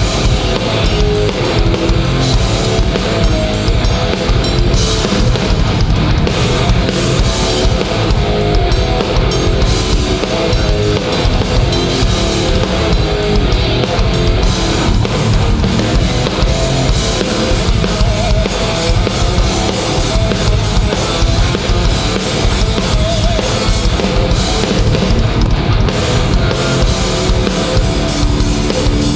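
Hardcore punk band playing live at full volume: distorted electric guitars, bass and a pounding drum kit in an instrumental passage, with no vocals.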